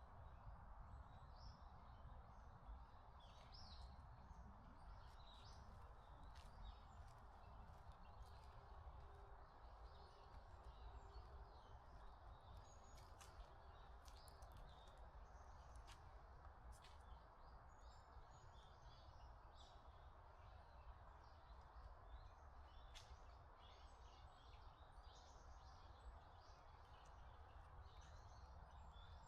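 Faint forest ambience: small birds chirping on and off over a steady low hiss, with a few sharp clicks.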